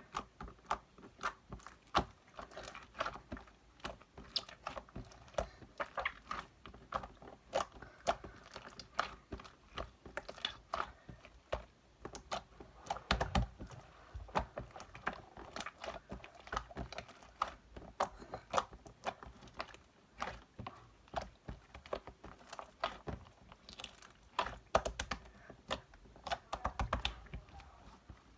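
Translucent slime being pressed and squeezed by hand, giving dense, irregular clicks and crackling pops, with a few soft low thumps.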